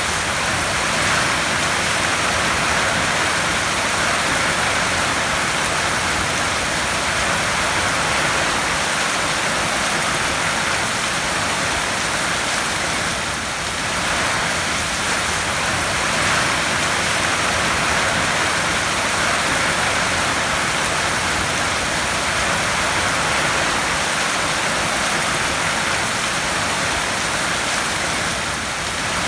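Heavy rain falling on a tin roof, a dense, steady hiss of drops with no let-up.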